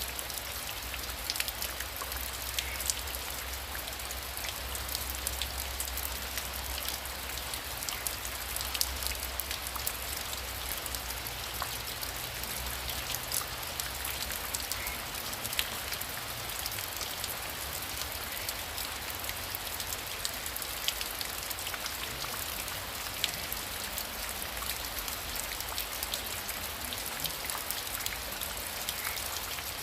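Heavy rain falling steadily, with a dense patter of sharp individual drop hits over the hiss. A low rumble sits underneath for roughly the first thirteen seconds, then fades.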